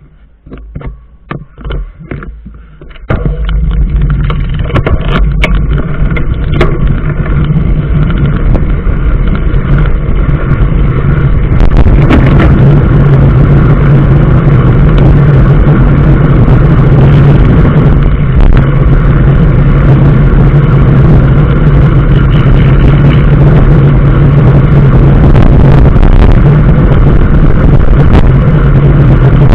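A vehicle engine starts about three seconds in, after a few clicks and knocks, then runs loud and steady. It grows fuller, with more hiss, from about twelve seconds in.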